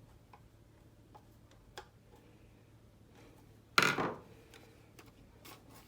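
Handling of a plastic airsoft magazine: a few faint clicks, then one loud, short scraping sound about four seconds in, likely as the baseplate is put back on.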